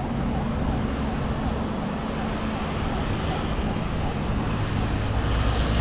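Steady wash of distant city traffic with a low rumble of wind on the microphone.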